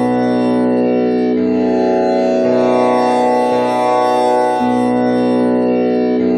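Tanpura drone tuned to B with the komal Ni string, its strings plucked in turn in a repeating cycle, a new string sounding about every second or so. Each note sustains into a continuous, overtone-rich drone.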